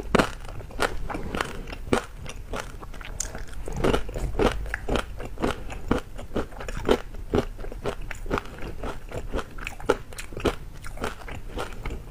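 A person chewing crunchy food close to a clip-on microphone: a string of crisp, uneven crunches, about two or three a second.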